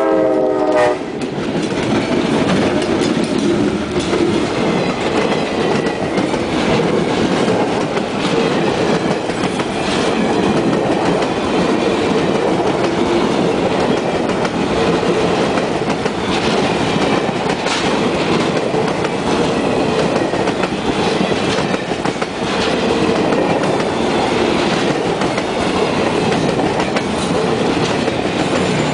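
A train horn's last blast cuts off about a second in. Then the excursion train's passenger cars roll steadily past: the rumble of steel wheels on rail with a clickety-clack from the wheels.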